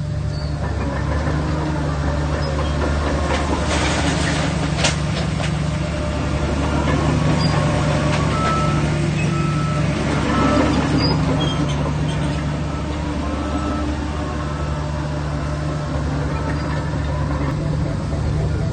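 Heavy diesel engine of a bulldozer running steadily under load, with a single clank about five seconds in. Through the middle stretch a reversing alarm beeps about every half second.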